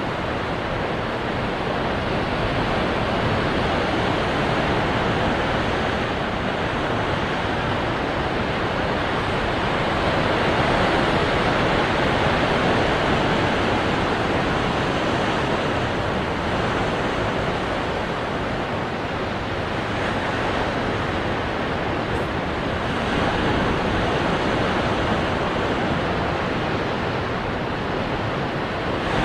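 Ocean waves breaking on rocks: a continuous rushing surf that swells and eases in slow surges every several seconds.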